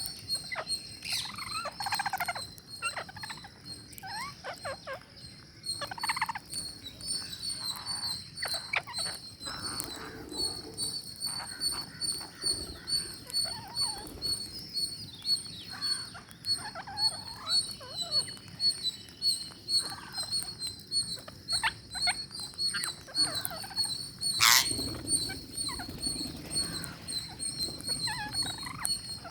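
Ring-necked parakeets chattering with short, repeated squawks and chirps, with one sharp, louder sound about three-quarters of the way through, over a steady high-pitched pulsing buzz.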